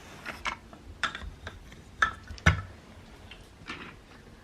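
Toy trains and train-track pieces clicking and knocking together as a toddler handles them: light, irregular clicks, the loudest about two and a half seconds in.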